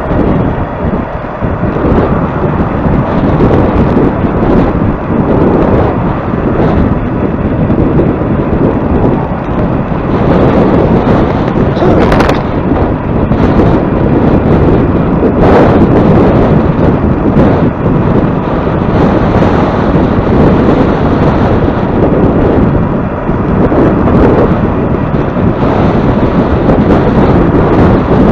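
Strong wind buffeting the microphone in loud, gusty rumbling, as when moving into a headwind. A couple of sharp knocks cut through about twelve and fifteen seconds in.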